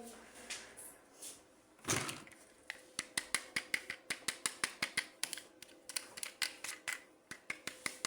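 Hard plastic toy parts clicking as they are handled: a brief rustle about two seconds in, then a fast run of sharp clicks, roughly four to five a second, that goes on to the end.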